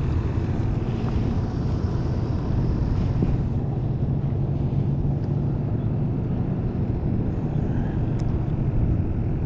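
A boat engine running steadily, a low even drone with no change in pitch.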